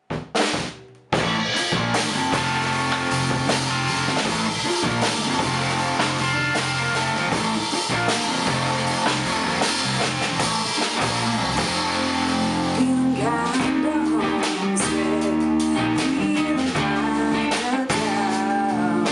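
A band playing with guitar and drum kit, coming in about a second in after a brief opening sound.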